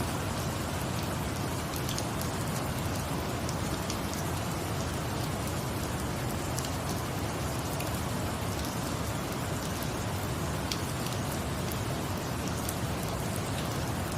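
Steady rain falling as an even hiss, with scattered small clicks throughout.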